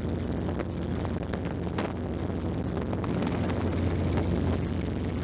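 Helicopter engine and rotor running steadily: a low, even drone with a few brief clicks.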